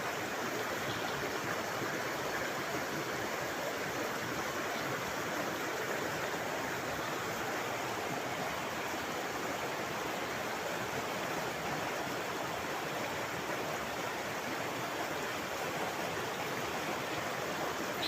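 Shallow river water rushing steadily over rocks, a constant even babble.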